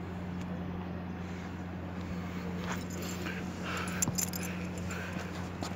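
Dogs playing, with short whines and a metallic jingling from about three seconds in, over a steady low hum.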